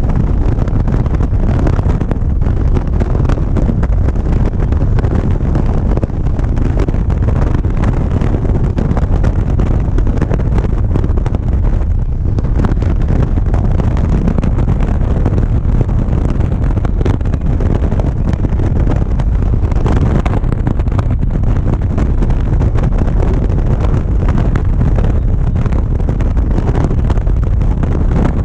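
Motorcycle riding at road speed, recorded on a GoPro: a steady, loud, low rush of wind on the microphone with the engine and road noise beneath it.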